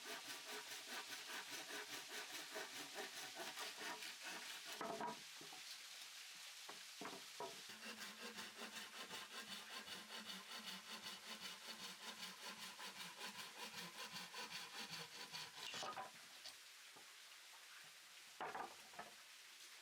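Hand saw cutting wood with rapid, even back-and-forth strokes of about five a second, in two long spells. A few separate knocks of wood fall between and after the spells.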